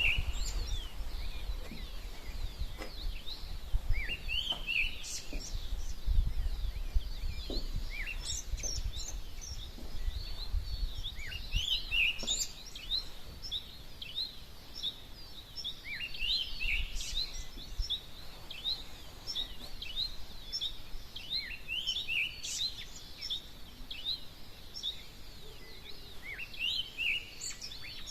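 Dawn chorus of many small birds chirping and singing over one another in quick rising and falling chirps. A low rumble runs underneath, fading out about two-thirds of the way in.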